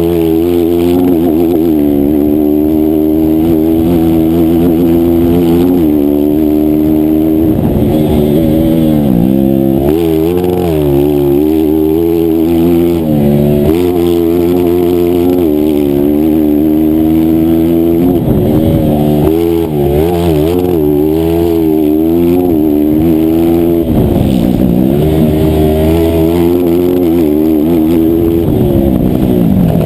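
A 160cc single-cylinder racing motorcycle engine revving hard through the gears. Its pitch climbs, then drops sharply several times as the throttle is closed for corners, and climbs again.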